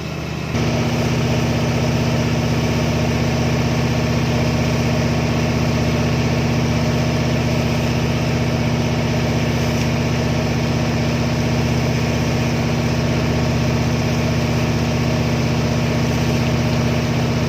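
Boat engine running steadily with a deep, even drone. It gets louder suddenly about half a second in and then holds at one pitch.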